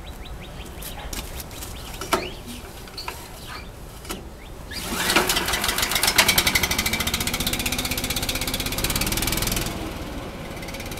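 Kohler small engine on a blower catching about halfway through and running fast with a rapid firing rhythm, then easing slightly near the end; it now starts cold because the choke plate closes all the way. A few clicks and knocks come before it fires.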